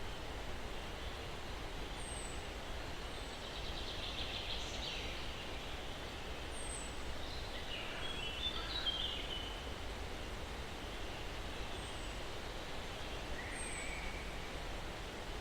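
Steady breeze through pine trees with a low rumble underneath, and distant songbirds over it: a trill about four seconds in, a burst of chirps around the middle, a short phrase near the end, and thin high notes every few seconds.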